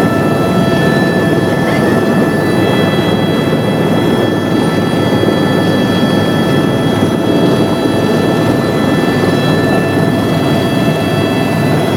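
Helicopter engine and rotor noise heard from inside the cabin: a loud, steady rush with a few faint steady whining tones above it.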